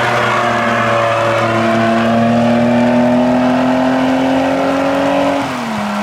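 A car engine pulling hard under acceleration, its note climbing steadily, then dropping sharply about five seconds in as the driver lifts off or shifts up, over a steady hiss of tyre and road noise.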